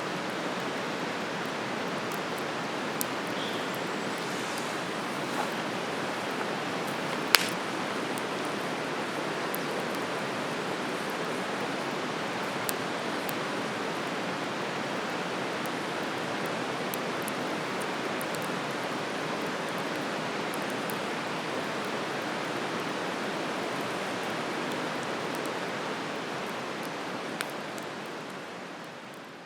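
Wood campfire burning: a steady rushing hiss with a few sharp crackling pops, the loudest about seven seconds in. The sound fades out at the end.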